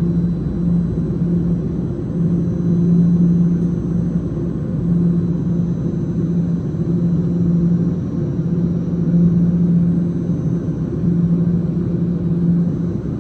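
TTC Line 1 subway train running through the station, a continuous rumble with a low hum that swells and fades every second or two, over a faint steady high whine.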